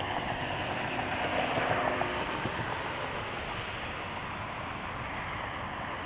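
Steady noise of jet airliner engines, with a few faint steady tones in the first couple of seconds.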